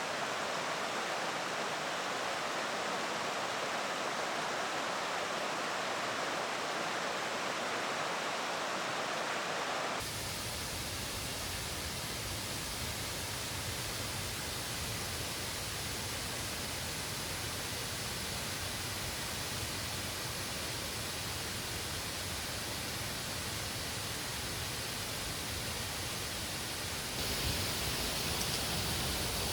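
Steady rush of water from a mountain stream over rapids or small falls. The character of the rushing changes abruptly about ten seconds in and again near the end.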